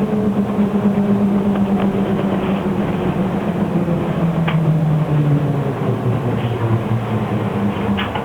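Interior sound of an SK5105KGP trolleybus under way: the electric traction motor's steady hum over road and body noise. The hum drops in pitch about halfway through as the bus slows, then rises again near the end as it picks up speed. A few sharp clicks and rattles come through.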